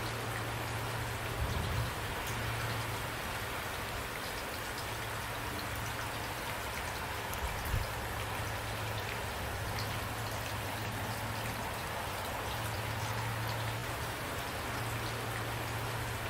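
Steady rainfall, an even hiss of many drops, with a few single louder drop hits about a second and a half in and again near eight seconds. A low steady hum runs underneath and drops out briefly a few times.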